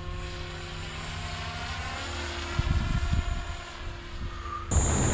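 Synergy 516 electric RC helicopter flying: a steady motor and rotor whine that drifts slightly in pitch, with a louder gusty low rumble about halfway through.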